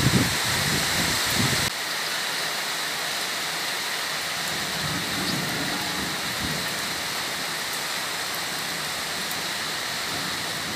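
Gusty wind rumbling on the microphone for the first second or two. After an abrupt change it gives way to the steady hiss of heavy rain falling on floodwater.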